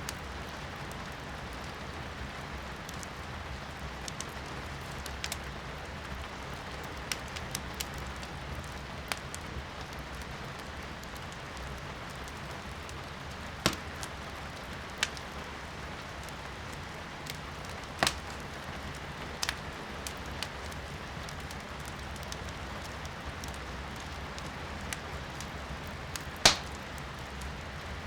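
Wood burning in a fireplace, crackling with scattered sharp pops, three of them louder (about halfway in, then around two-thirds in, and near the end), over a steady hiss of rain heard from indoors.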